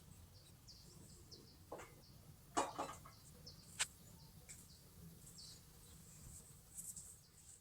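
Faint, scattered bird chirps over a low steady background hum, with a few light knocks about two, two and a half, and four seconds in; the one at two and a half seconds is the loudest.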